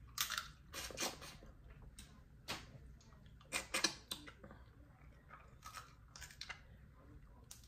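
A person eating close to the microphone: chewing and biting food held in the fingers, with sharp wet clicks and crackles scattered irregularly throughout, the loudest cluster about three and a half to four seconds in.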